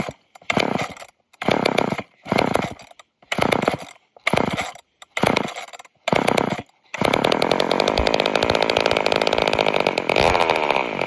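Old two-stroke chainsaw engine sputtering in short bursts about once a second, then catching and running steadily for about four seconds before it cuts out. It will start but won't stay running, which the owner puts down to it having a hard time pulling fuel, maybe through a dirty fuel filter.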